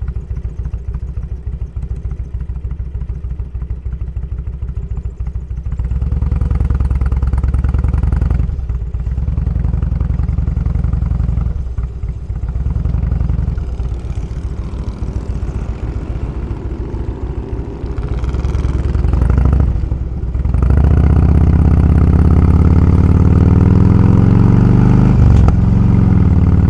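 Motorcycle engine running on the ride, quieter for the first few seconds, then louder, dropping briefly three times before settling into a loud, steady run for the last third.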